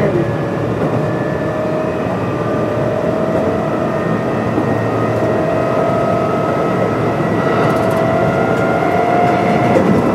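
Kintetsu 8600 series electric train running between stations: a steady rumble of wheels and running gear. Over it runs a motor and gear whine that rises slowly in pitch as the train gathers speed. The whine stops shortly before the end.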